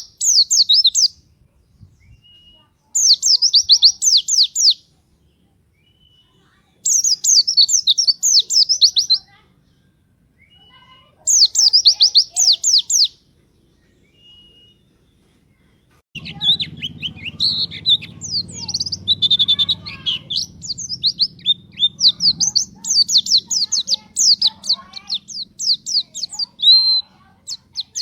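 Pleci (white-eye) songbird singing the fast, high twittering 'nembak' song: bursts of about two seconds repeated about every four seconds, then near-continuous varied song from a little past halfway, with a low hum underneath.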